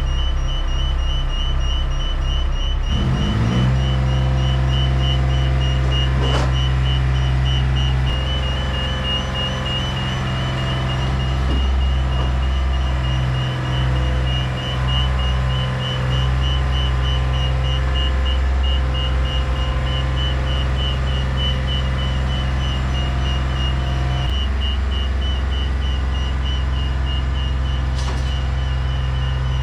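Heavy lorry engine running under way with a steady low drone, its note shifting about three seconds in, and a quick repeating high beep running throughout.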